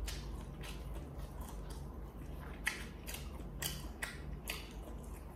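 Close-miked chewing of a mouthful of stir-fried instant noodles: faint, short mouth clicks and smacks at an uneven pace.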